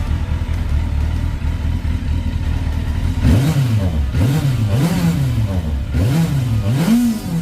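Yamaha Fazer 600's inline-four engine idling steadily, then revved several times about three seconds in, the pitch rising and falling with each blip of the throttle.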